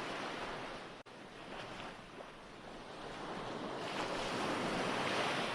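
Recorded ocean waves washing on a shore, an even surf that swells to a crest about four to five seconds in. The sound cuts out for an instant about a second in.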